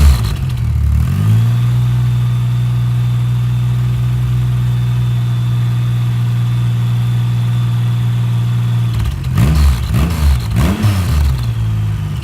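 Triumph Rocket 3's inline-three engine breathing through an aftermarket Delkevic oval 350 silencer on the stock header. It idles, is raised to a steady higher rpm about a second and a half in and held there for about seven seconds, then gets three quick throttle blips before dropping back to idle.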